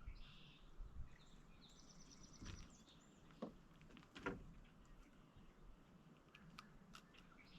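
Near silence: faint outdoor ambience with a few soft clicks and knocks scattered through it, and a faint high chirp or two.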